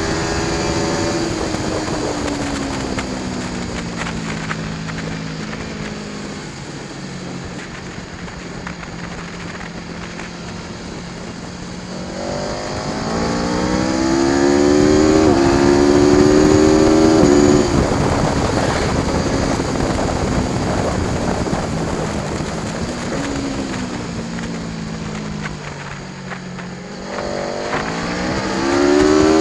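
Aprilia Tuono V4 1100 Factory's V4 engine at speed. The revs fall for the first several seconds and run low and steady for a while. They then climb hard from about twelve seconds in, drop away again, and begin climbing once more near the end.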